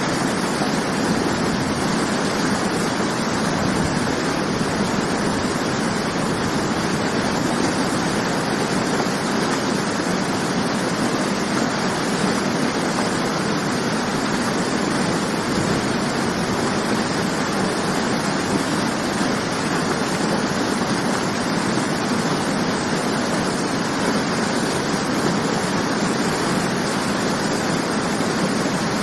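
Waterfall rushing steadily, a constant loud roar of falling water without breaks.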